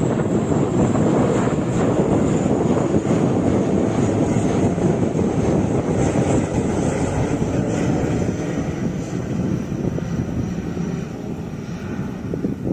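ATR 72 turboprop airliner's engines running at take-off power: a loud, steady rushing drone with a thin high whine over it, easing off slightly near the end.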